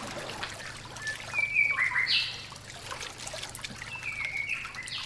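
Rainforest birds calling in short whistled notes, with a louder run of calls about two seconds in that slides down and then jumps high, over trickling water.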